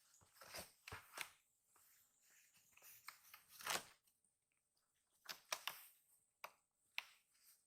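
Faint, irregular rustling and scratching from kittens scuffling about, with a longer scrape about three and a half seconds in and a few sharp clicks later on.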